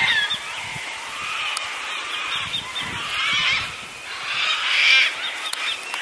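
Birds calling: many short, overlapping squawks and chirps, with louder bursts of calling at about three and five seconds in.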